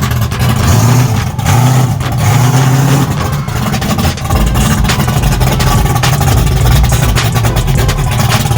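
1974 Camaro drag car's engine running loud, its low note wavering, with a deeper rumble setting in about four seconds in.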